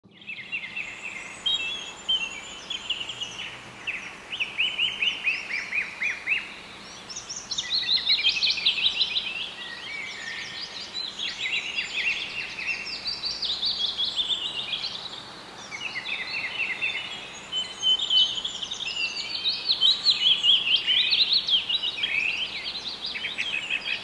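Songbirds chirping, several at once, in quick strings of short falling notes that keep up throughout.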